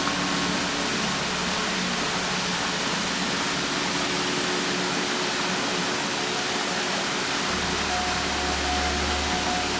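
Steady rush of a waterfall, with soft background music of long held notes over it; a deep low note comes in about seven and a half seconds in.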